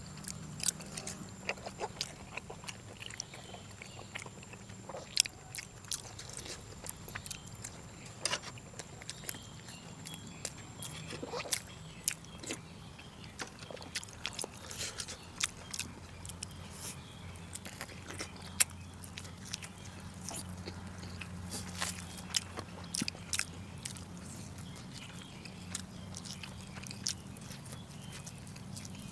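A person chewing and eating braised pork, with frequent irregular wet mouth clicks and smacks. A steady low hum runs underneath, and a faint high whine stops about twelve seconds in.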